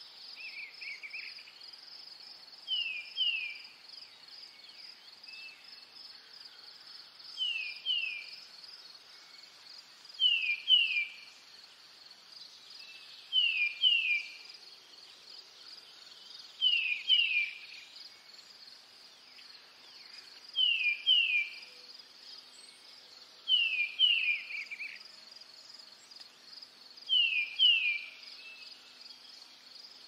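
A bird repeating a sharp two-note call, each pair of quick downward-slurred notes, about every three to four seconds, over a steady high insect trill like crickets.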